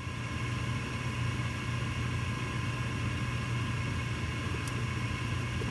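Gas furnace running with a steady low hum and a steady higher whine, and a faint tick near the end.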